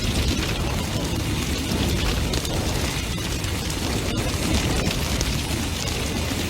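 Large bonfire burning hard: a steady low roar of flames with dense crackling and sharp pops throughout.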